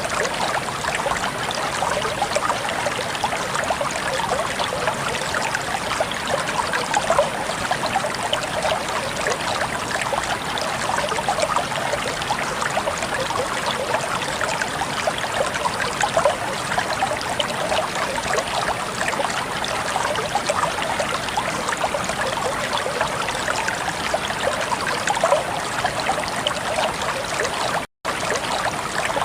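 Flowing water babbling and trickling in a steady, dense splashing. It cuts out completely for a split second near the end.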